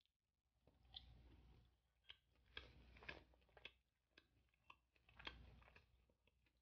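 Faint mouth sounds of a person chewing a bite of boneless spicy sauced chicken: scattered soft clicks and smacks, a few each second.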